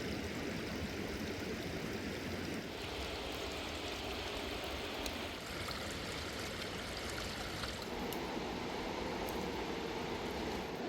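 A fast-flowing mountain river rushing steadily, its tone shifting a few times.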